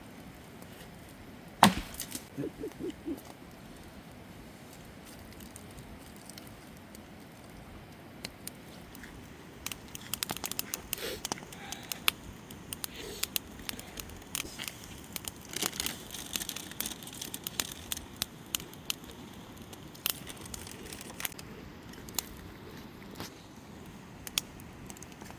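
Wood cracking and snapping. One sharp knock comes near the start and is followed by a few short low sounds. In the second half come many irregular crackles and snaps.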